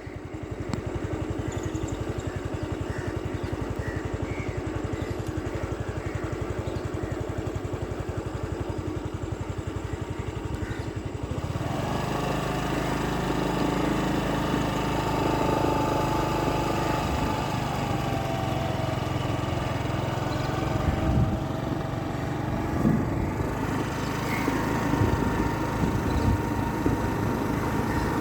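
A motor engine running steadily, with a rapid even pulse; about eleven seconds in its sound changes and grows a little louder, with steady pitched tones.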